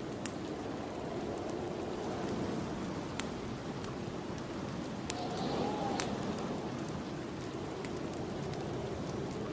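Snowstorm wind blowing steadily, swelling briefly about five seconds in, over the scattered crackle and pops of a wood fire burning in a fireplace.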